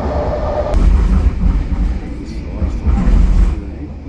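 Moving SkyTrain car rumbling, with two louder rushes of noise about a second in and near three seconds.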